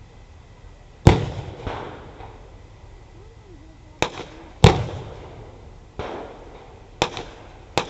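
Simulated artillery strike: six sharp pyrotechnic bangs at uneven intervals, each with a short rumbling tail. The loudest come about a second in and just past the middle.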